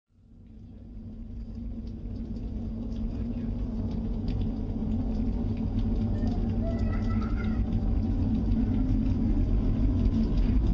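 Space Shuttle main engine test firing: a deep rumble that rises out of silence and keeps growing louder.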